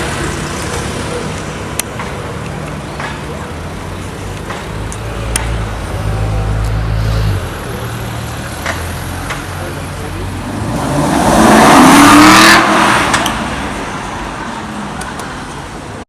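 Supercar engines on a city street: a low, steady engine rumble, then about eleven seconds in a car accelerates hard, its engine note rising in pitch to the loudest moment before fading away.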